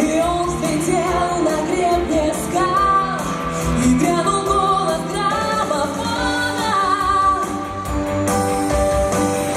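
Pop song with a singer's voice carrying the melody over band accompaniment.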